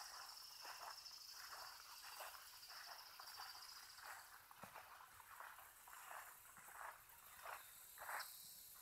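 Near silence with a faint, steady, high-pitched insect chorus, crickets or katydids, that fades about halfway through, and soft irregular rustles.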